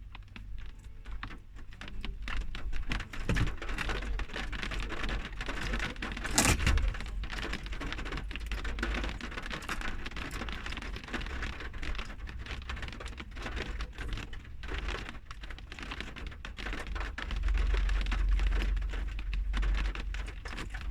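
Rain pattering steadily, with a single sharp knock about six and a half seconds in.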